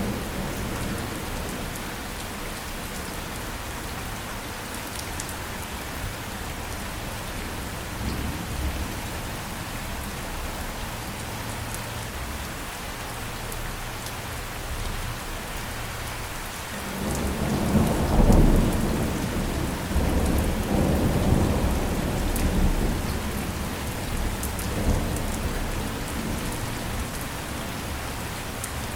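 Steady rain falling, with a roll of thunder a little past halfway that swells, peaks, and rumbles away over several seconds.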